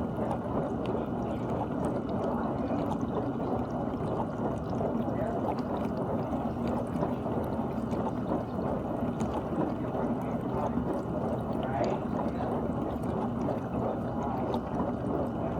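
GE dishwasher running mid-cycle: water spraying and sloshing steadily inside the tub.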